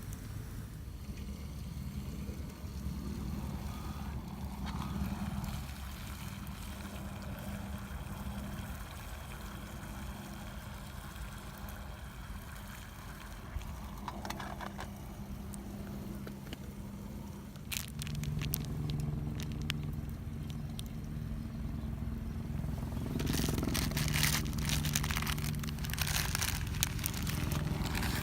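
Wood campfire crackling and snapping over a steady low hum, with the crackles growing dense in the last few seconds.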